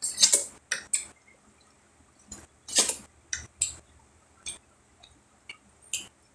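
Biting and chewing corn on the cob with wet mouth smacks, coming in about a dozen short, irregular bursts. The loudest come right at the start and about three seconds in.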